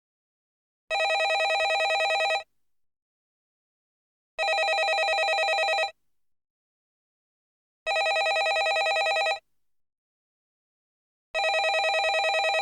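Landline telephone ringing: four rings, each about a second and a half long with a fast trill, repeating every three and a half seconds with silent gaps between them.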